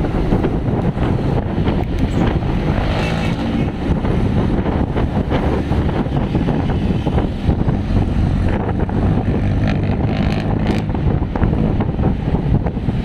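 Wind buffeting the microphone on a moving bicycle, with the engines of passing road traffic coming through at times.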